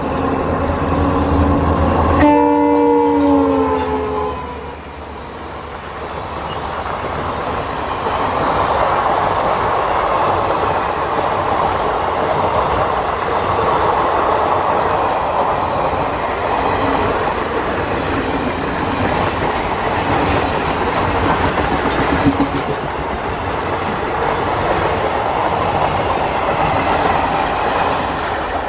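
WDP4D diesel locomotive (EMD 16-cylinder two-stroke) sounding its multi-tone horn as it runs past at speed. The horn chord drops in pitch as it goes by, about two to four seconds in, then cuts off. A long rake of passenger coaches follows, rushing past with steady wheel-on-rail clatter.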